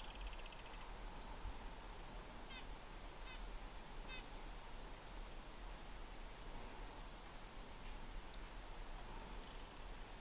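Faint birdsong: a series of thin, high repeated notes and three short falling calls in the first half, over quiet woodland ambience.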